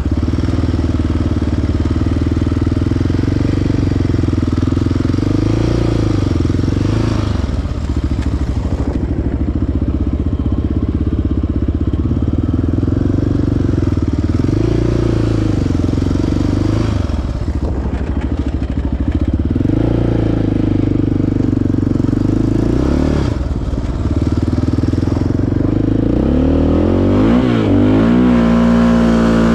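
Single-cylinder four-stroke sport quad engine running under changing throttle, its pitch rising and falling every few seconds, with several quick revs near the end.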